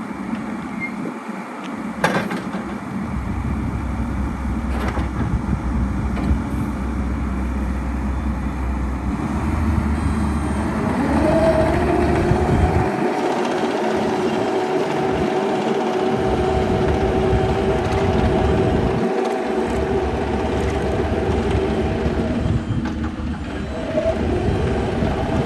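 Bobcat E55 compact excavator running, its diesel engine rumbling steadily. About eleven seconds in, the machine climbs to a higher, steady whining pitch and holds it. A sharp knock comes about two seconds in.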